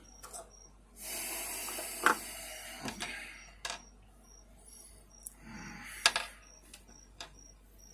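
Rustling and handling noise from working on box-fan parts by hand, broken by several sharp clicks and clinks of small hard parts. Crickets chirp steadily in the background, about twice a second.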